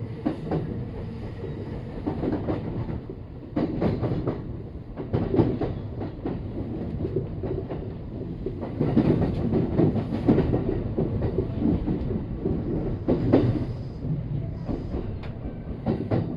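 Kintetsu train running on the Nara Line, heard from on board: a steady rumble of wheels on rail with irregular clatter from rail joints and points.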